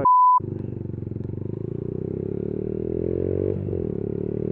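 A short, loud single-tone bleep at the very start. After it, a Yamaha YBR125's single-cylinder engine, breathing through a Leo Vince GP Corsa exhaust, pulls with its pitch slowly rising, with a gear change about three and a half seconds in.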